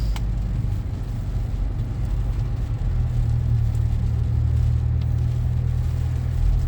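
Steady low rumble of a car heard from inside the cabin while driving on rain-wet roads, engine and tyre noise, with a single click just at the start.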